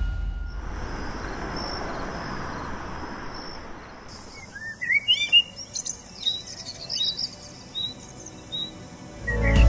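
Birds calling at dawn: a few quick rising chirps, then a run of short repeated high notes, over a soft even hiss of ambience. A faint high steady tone sits in the first half.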